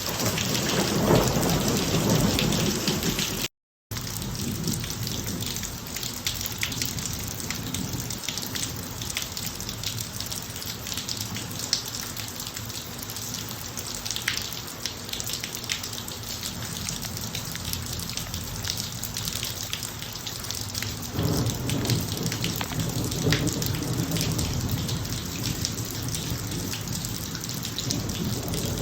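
Thunderstorm rain falling steadily, with individual drops pattering sharply, and thunder rumbling low in the first few seconds and again for several seconds from about two-thirds of the way through. A split second of total silence a few seconds in.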